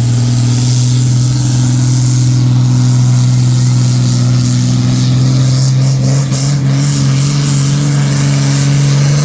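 A pulling tractor's engine running hard at a high, steady speed. Its pitch rises slightly about six seconds in.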